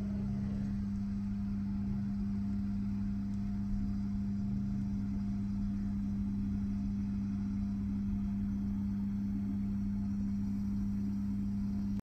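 Steady low hum of an idling vehicle engine heard from inside a parked minivan, one strong low tone held without change.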